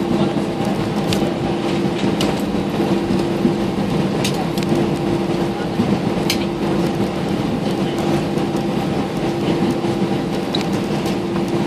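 Cabin noise of an Airbus A320 on the ground, heard from inside near the engine: the jet engines run steadily at low thrust with a held hum over a low rumble. Short clicks and rattles come every second or two.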